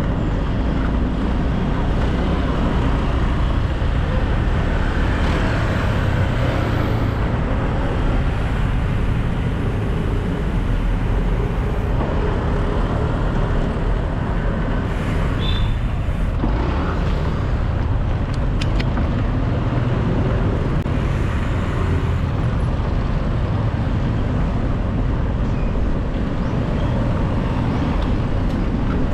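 Steady city road traffic heard from a moving bicycle: a continuous low rumble of passing motor vehicles, with a brief high squeal about halfway through.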